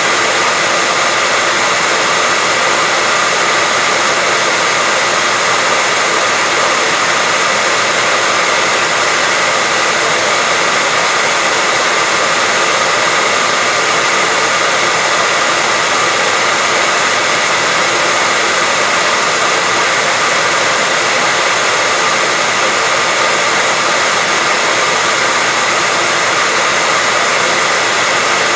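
Hair dryer running steadily: a constant rush of blown air with a faint, steady motor whine over it.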